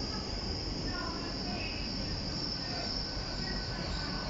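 Hitachi Class 800 Azuma train pulling slowly into the platform, its carriages rolling past at close range with a steady high-pitched squeal over a low rumble.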